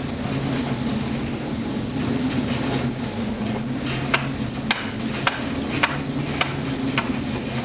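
Steady low machinery hum with a run of sharp knocks, about two a second, starting about halfway through.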